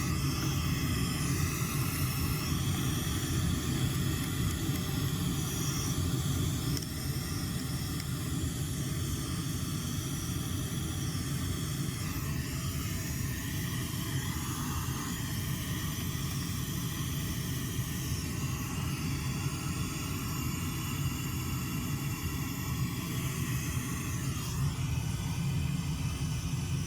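Pink noise test signal played loud through home-cinema speakers, set to about 85 dB: a steady hiss with strong low bass underneath. Its tone shifts slightly about halfway through and again near the end.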